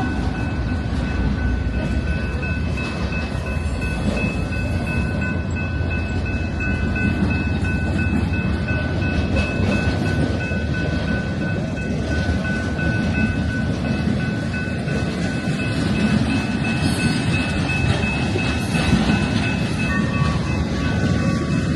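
Freight train passing: a steady rumble and rattle of wheels on rail, with a thin steady high-pitched whine held over it.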